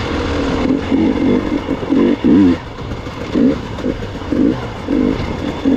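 Gas Gas EX 300 two-stroke dirt bike engine revving in short throttle bursts, rising and falling about once or twice a second as it is ridden over rough terrain.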